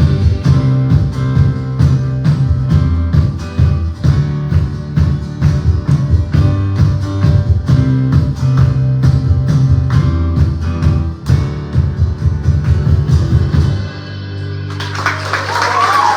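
Live worship band playing an instrumental passage with guitar, bass and drum kit in a steady driving beat, ending on a held chord near the end. Applause starts just after the chord.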